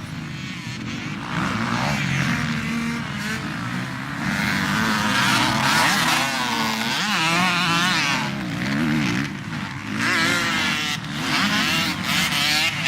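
Several motocross dirt bikes racing, their engines revving up and down, overlapping, with the pitch wavering constantly as the riders work the throttles.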